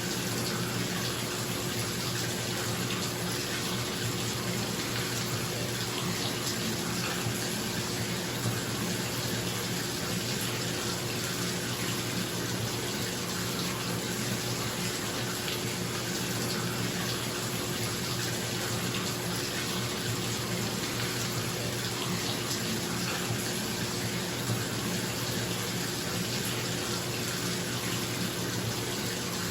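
Bathtub tap running and filling the tub in a steady, even rush of water, with a bathroom exhaust fan humming underneath in a small tiled room.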